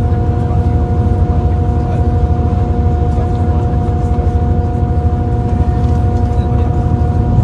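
Passenger train running at steady speed, heard from inside the carriage: a constant low rumble with a steady hum held on a few fixed pitches.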